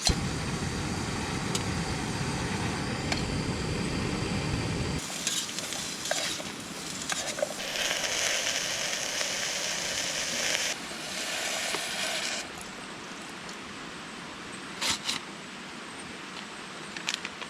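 Food sizzling in a hot cooking pot over camp heat, starting about five seconds in and fading out around twelve seconds. Before it, a low rumbling noise that cuts off suddenly; a few light knocks near the end.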